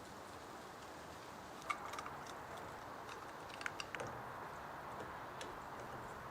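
Scattered light clicks and taps from small carburetor parts and tools being handled, a handful of separate ticks over a steady low hiss.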